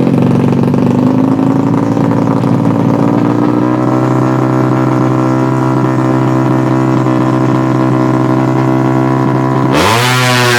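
Tuned 200cc underbone racing motorcycle engine held at high revs. The pitch creeps up over the first few seconds and then holds steady. Near the end it gets suddenly harsher, with the pitch swinging up and back down.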